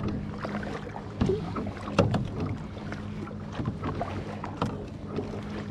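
Kayak paddles dipping and splashing in lake water, with a few sharp knocks about a second apart, over a steady low hum.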